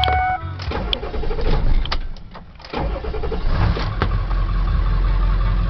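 Ford 7.3 L Powerstroke V8 turbo diesel being started: after a brief lull, the engine catches about three seconds in and settles into a steady low idle.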